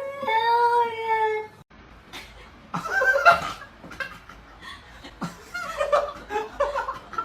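A cat's long drawn-out meow that ends about a second and a half in, followed by people laughing.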